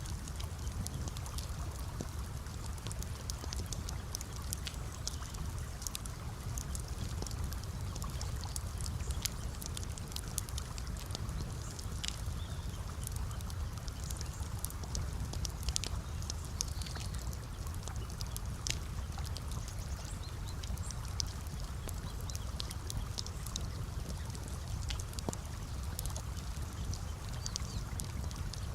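Campfire crackling, with many sharp, irregular pops over a steady low rush, mixed with gently trickling water.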